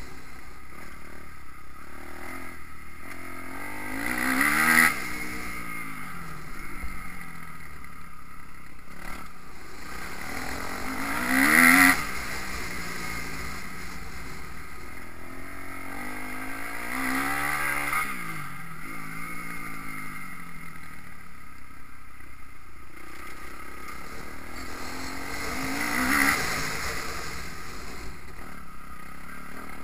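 Motocross bike engines revving hard. About four times the engine note climbs in pitch, swells and then cuts off sharply, with a steadier engine drone between the peaks.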